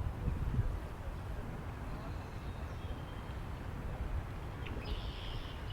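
Wind rumbling steadily on the microphone, gusting in the first half-second, with a bird giving a short high call near the end.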